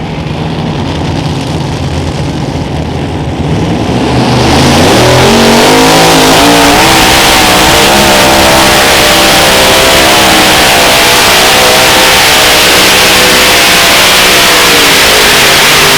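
Unlimited modified pulling tractor's engines running low, then revving up about four seconds in and held at full throttle, very loud, the pitch climbing slowly as the tractor makes its pull.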